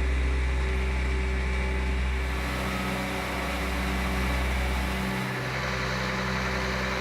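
An engine running steadily at a constant speed, with a loud low hum.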